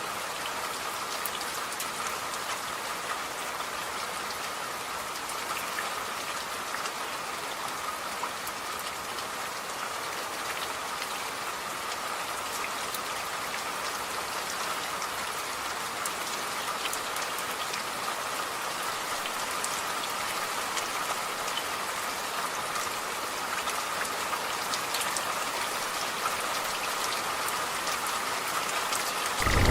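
Steady rain falling on a surface, a constant hiss sprinkled with countless individual drop ticks. Right at the very end a loud, low rumble of thunder breaks in.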